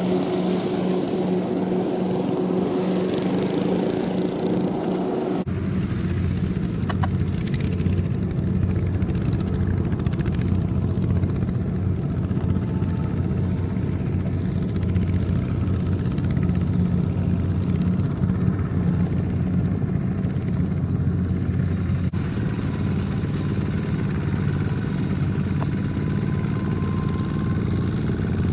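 Small Kubota tractor's engine running steadily, a low, even drone. Its tone changes abruptly about five seconds in and again near the twenty-two second mark.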